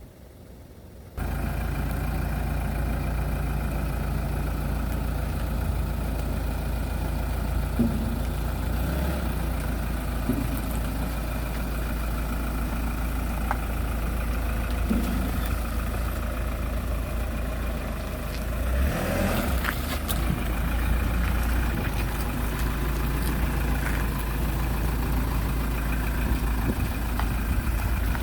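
A steady engine-like hum that starts abruptly about a second in and runs evenly, with a low drone under a broad rushing noise.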